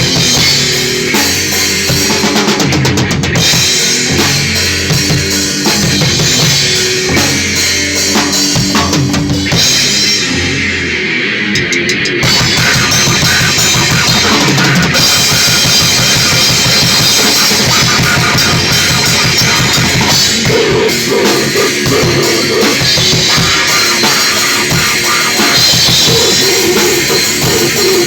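Grindcore band playing loud and full-on: drum kit with bass drum and cymbals under heavy, distorted riffing. About ten seconds in the cymbals drop out briefly, then the drumming picks up into rapid, fast-repeating hits.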